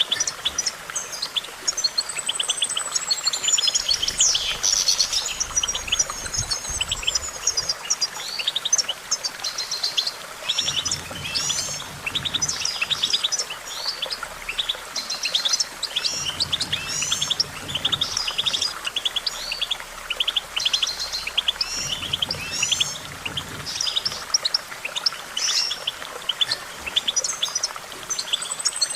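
European goldfinch singing a long, continuous twittering song of rapid trills and quick rising and falling notes.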